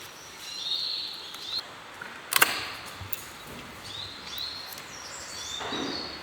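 Birds chirping over a steady background hiss, with one sharp click about two and a half seconds in.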